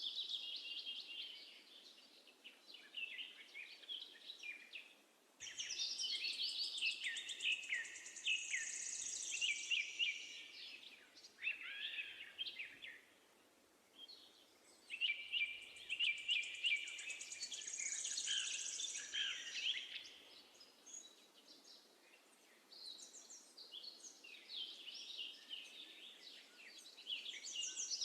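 Sparrows chirping and singing in long bouts of quick, high notes and trills, broken by a few short pauses, over a faint steady background hiss.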